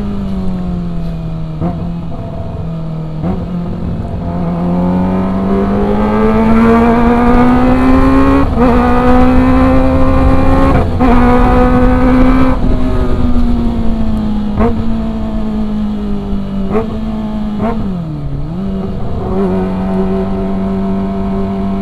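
Kawasaki ZX-25R's 249 cc inline-four engine on a ride, its note climbing slowly under throttle, holding high, then easing off, with several short sharp breaks and a quick dip before settling to a steady cruise.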